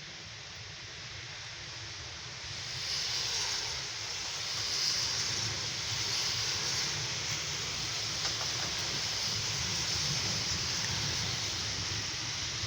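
Thunderstorm rain pouring down steadily, growing louder about three seconds in.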